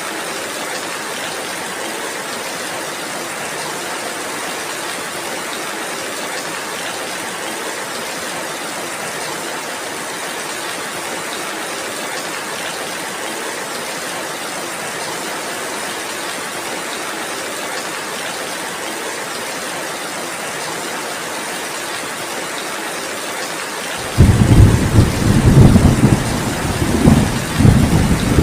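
Heavy rain falling steadily as an even hiss. Near the end, thunder breaks in suddenly with a loud, low, rolling rumble.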